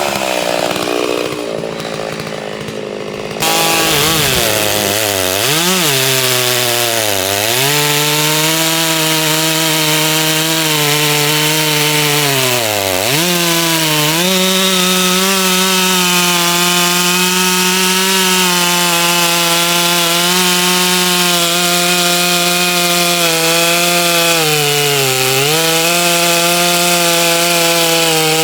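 A Holzfforma G660 92cc two-stroke chainsaw running at high revs while cutting wood. Its pitch sags several times as the chain bites in under load, then climbs back. It is briefly quieter a second or so in.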